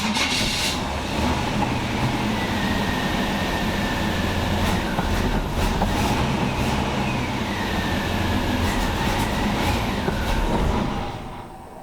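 Truck engine cranking over on its starter for about eleven seconds without catching, with a pulsing chug and a starter whine that sags and then picks up again partway through. It stops about a second before the end.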